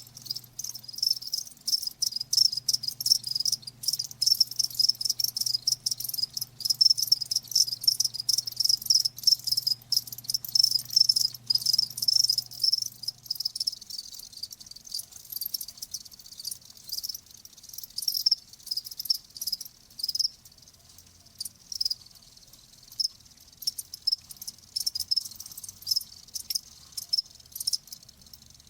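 Crickets chirping: a dense chorus of rapid, high-pitched pulsed chirps that keeps going without a break.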